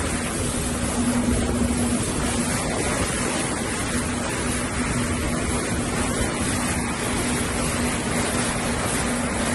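Jet ski engine running at a steady pitch, with wind and water noise over the microphone.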